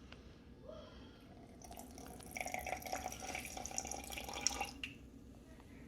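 Water being poured into a bottle holding sourdough starter, a thin stream with a tone that rises slightly as the bottle fills, starting about a second in and stopping near the end.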